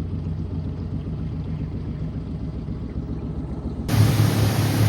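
An engine running steadily with a low hum. About four seconds in, it becomes abruptly louder, with a hiss added over it.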